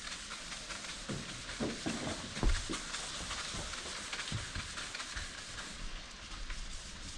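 Sandpaper rubbing back and forth over a surface in a steady scratchy hiss, with a few low knocks, the loudest about two and a half seconds in.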